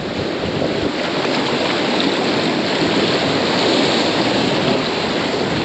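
Ocean surf rushing and washing up on the shore, a steady loud wash that swells a little around the middle.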